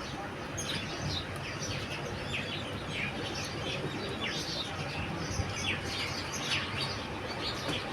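Birds chirping in a rapid, ongoing series of short high chirps, over a low steady background noise.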